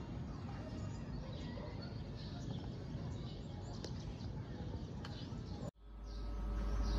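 Small birds chirping now and then over a steady outdoor background hum. Near the end the background cuts off abruptly and a louder steady hum fades in, the chirping carrying on over it.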